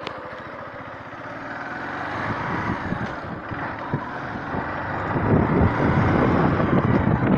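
A vehicle engine pulling away, its low, even firing giving way to a growing rush of wind on the microphone as it picks up speed.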